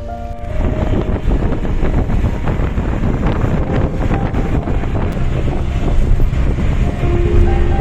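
Loud, rumbling outdoor noise that comes in about half a second in and covers faint background music.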